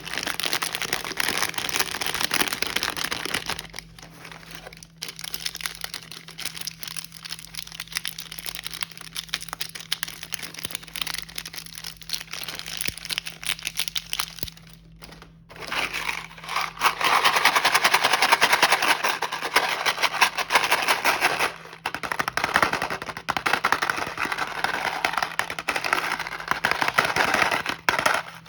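Plastic snack wrappers being handled and crinkled, a dense rapid crackling that is loud at first, softer for a long stretch, then loud again about halfway through, over a faint steady electrical hum.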